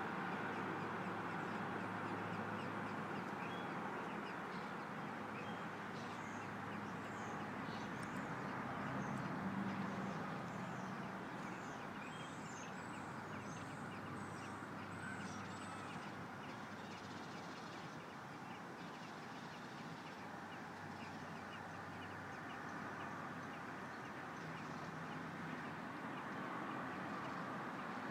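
Small birds chirping: a quick series of short, high, falling chirps through the middle, fading out later, over a steady background hum.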